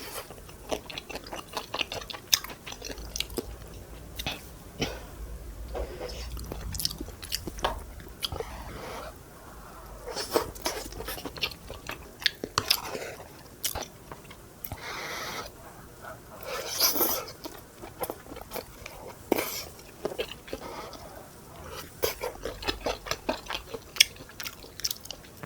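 Close-miked eating: chewing with many small wet mouth clicks and smacks, repeated throughout.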